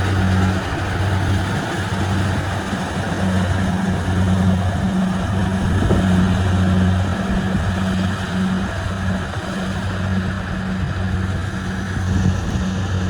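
Kubota rice combine harvester's diesel engine running steadily: a constant low hum under an even spread of mechanical noise.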